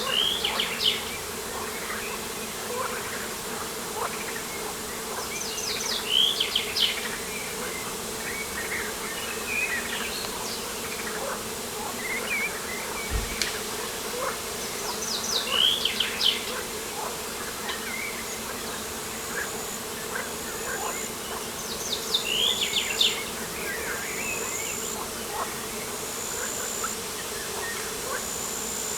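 Insects buzzing steadily close by, with a songbird singing short chirpy phrases four times, which are the loudest sounds, and a faint regular high chirping in the last third.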